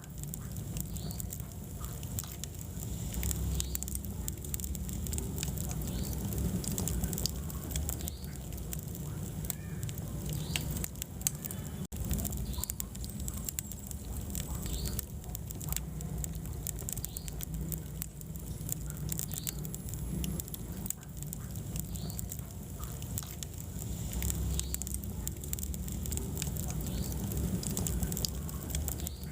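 Wood fire burning in a fireplace: a steady low rumble of flames with many irregular small crackles and pops from the burning logs, and a momentary dropout about twelve seconds in.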